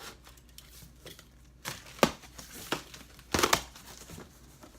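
Packaging being opened and handled: crinkling and tearing of box and packing material, with a few louder crackles, the loudest about two seconds in and again about three and a half seconds in.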